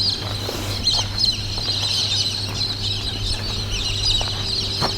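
Many small birds chirping, a steady stream of short, high, quick chirps, over a constant low hum.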